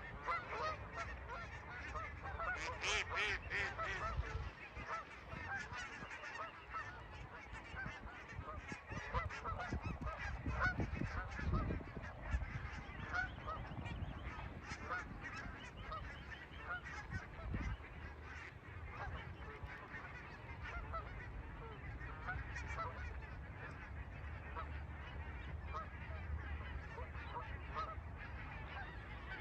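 Many geese calling at once in a dense, continuous chorus of short calls, with a louder burst about three seconds in and some low rumbling around the middle.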